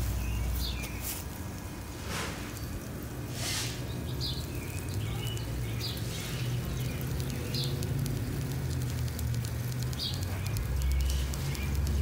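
Outdoor ambience: a steady low rumble under a few short, high bird chirps that come every second or two, with some rustling bursts in the first few seconds.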